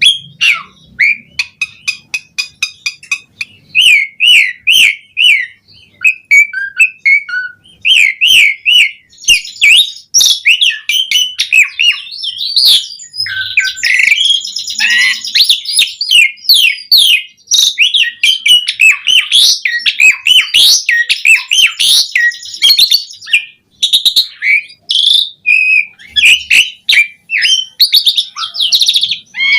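Asian pied starling singing vigorously: a long, nearly unbroken run of varied whistles, rapid repeated chattering notes, pitch glides and clicks, including mimicked phrases from its repertoire.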